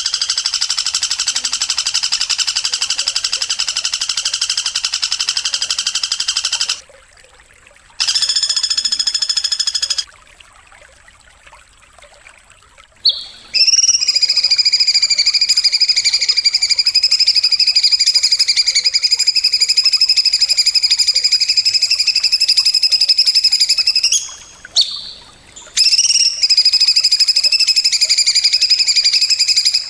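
An animal's rapid buzzing trill, held steady for several seconds at a time with short pauses between, of the kind played as a master song for training caged songbirds.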